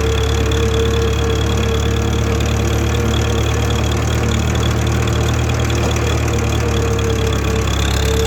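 International Harvester 444 tractor engine running steadily, with a constant low drone and a steady whine.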